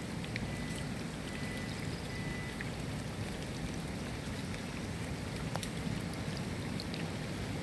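Steady rain, with single drops ticking now and then over an even hiss.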